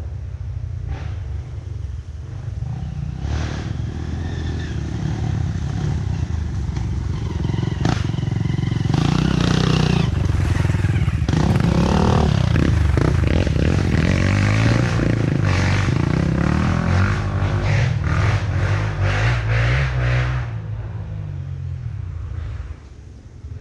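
Trail motorcycle engine revving, rising and falling in pitch as it grows louder over several seconds, then dropping away suddenly about twenty seconds in.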